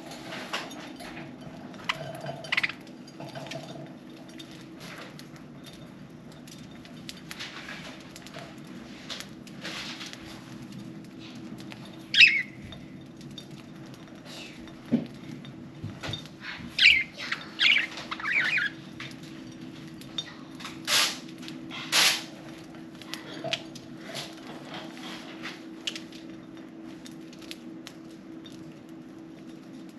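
Budgerigars pecking at millet with small scattered clicks, giving a few chirps about twelve seconds in and a cluster of chirps a little past the middle, then two short loud calls. A steady low hum runs underneath.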